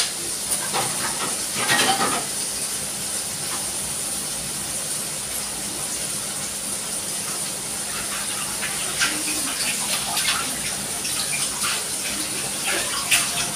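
Steady sizzling hiss of chicken frying in oil in a wok on a gas stove, with a few light clinks of utensils about two seconds in and again towards the end.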